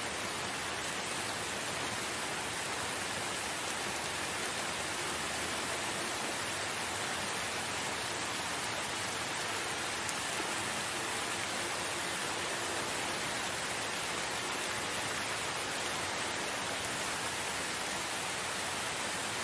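Steady rain falling in a forest, an even hiss of drops with no thunder.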